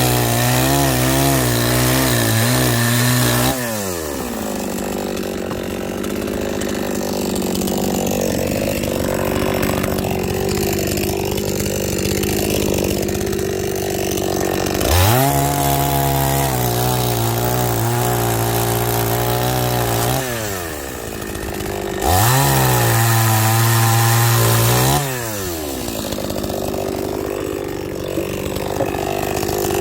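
Two-stroke chainsaw cutting firewood logs. The engine revs high, then drops sharply in pitch to a lower, rougher note, three times over.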